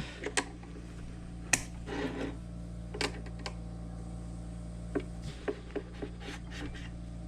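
Scattered light clicks and taps of metal parts and hand tools being handled as a worn guide pin is worked out of a Framon key-cutting machine, over a steady low hum.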